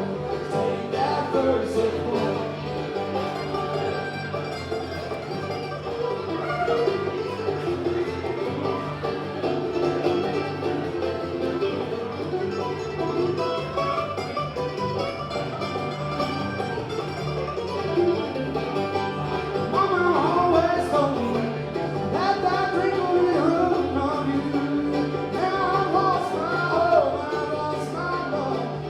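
Bluegrass band playing a song live.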